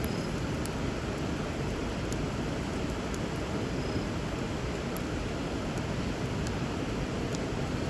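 Steady rush of flowing river water, with a few sharp, scattered crackles from a wood bonfire burning over it.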